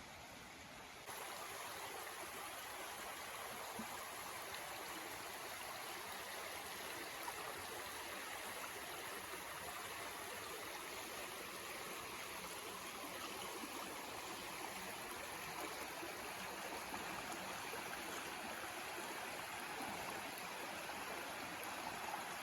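Steady rushing of flowing water. It starts abruptly about a second in and runs on evenly.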